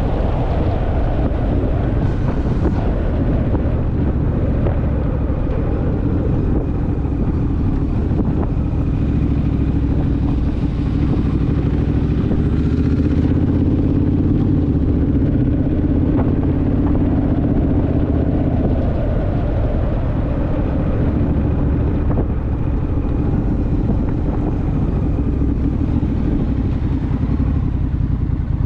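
Honda Rebel motorcycle's parallel-twin engine running steadily on the move, its note growing a little louder about halfway through.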